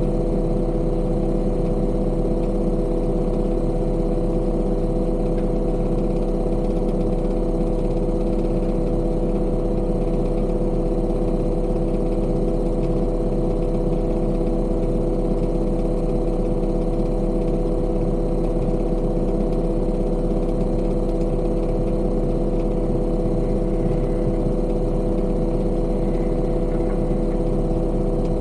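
Heavy construction machine's engine running steadily at a constant speed, a continuous drone with strong steady tones.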